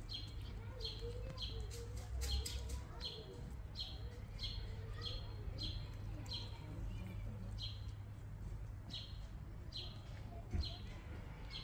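A small bird chirping over and over, short high chirps repeated every half second or so.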